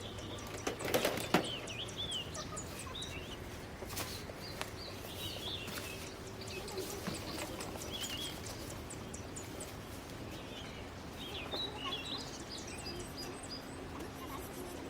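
Small birds chirping and twittering, with a few sharp knocks about a second in and another at about four seconds.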